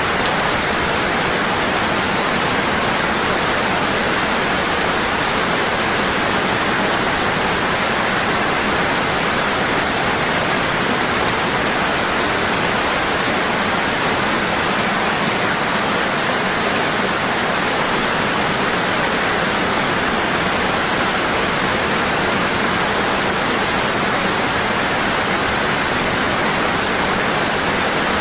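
Waterfall: water falling hard and constant, a steady, even rush without change.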